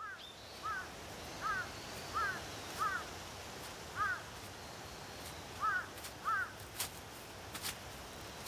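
Birds calling in short, arched calls, about nine of them at uneven spacing, over a steady hiss like wind, with a few sharp ticks near the end.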